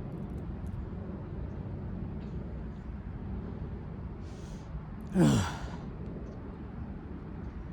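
A person draws a breath and then lets out a sigh that falls in pitch, a little past halfway through, over a steady low background rumble.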